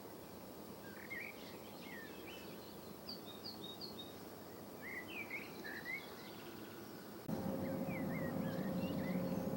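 Small birds chirping and twittering in short, quick high calls over a quiet outdoor background. About seven seconds in, a louder steady low hum with a faint held tone cuts in abruptly.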